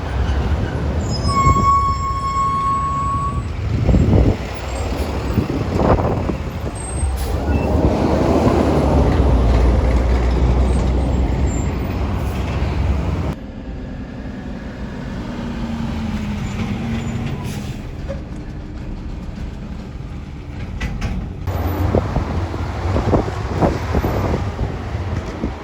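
Garbage truck's diesel engine running, with a brief high brake squeal about a second in. About halfway through the sound drops suddenly to quieter passing-traffic noise.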